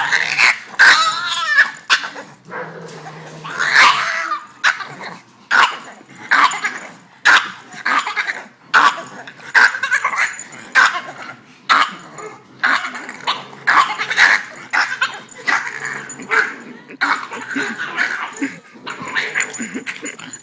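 Boston terrier giving a long run of short, high, warbling yips, barks and whines, about one or two a second, in frustration at being kept from playing with other dogs.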